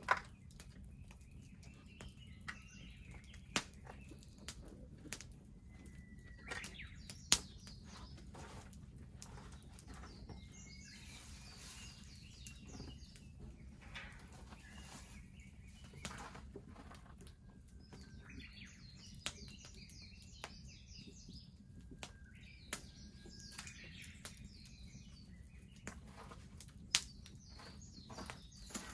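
Wood bonfire crackling, with scattered sharp pops, a few of them loud. Small birds chirp and sing in short bursts.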